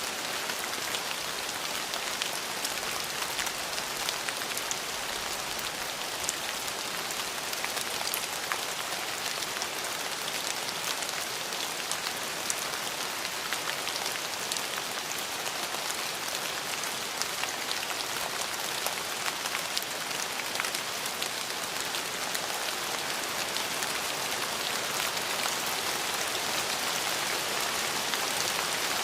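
Steady rain falling on a surface: a dense, even hiss with many fine drop ticks mixed in.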